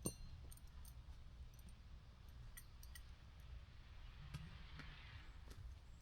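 Near silence: a faint low background rumble with a soft knock at the start and a few scattered faint clicks.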